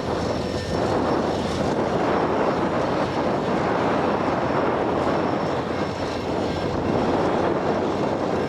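Freight train rolling past: a steady rumble of cars on the rails, with faint high wheel tones.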